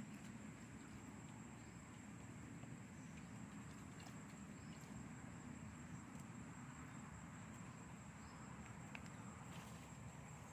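Light rain with an even hiss and a few faint drop ticks, under a thin, steady, high insect tone.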